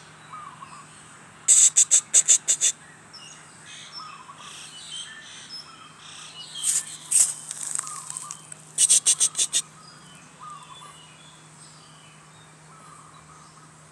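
Outdoor birdsong: a bird gives three bursts of about six rapid, sharp, high notes, with soft short chirps between them. A steady high insect whine runs behind it.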